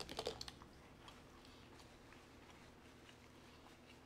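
Faint, close-miked chewing of food: a quick run of wet mouth clicks in the first half second, then quiet chewing with an occasional soft click.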